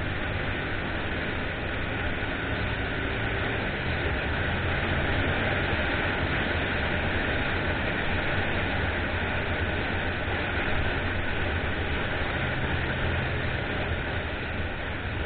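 Motorcycle engine running steadily while riding, under a constant rush of wind noise over the microphone.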